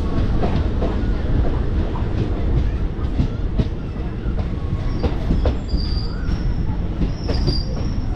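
DEMU train running on the rails: a steady rumble with wheels clicking over the rail joints. About five seconds in, high-pitched wheel squeal comes in several times.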